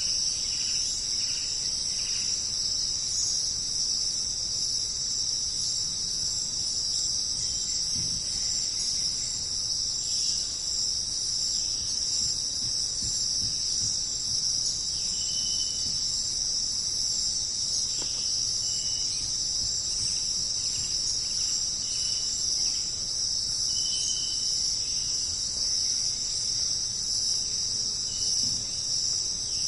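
Dense insect chorus of crickets and similar singing insects, a continuous high-pitched buzzing that holds steady throughout. A few short, faint whistled notes sound over it now and then.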